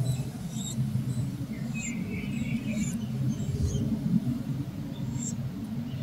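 A few short, high-pitched chirps from small birds, scattered over a steady low hum.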